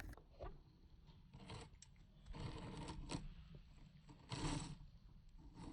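Faint scraping and rustling handling noises in a few short spells, with near quiet between.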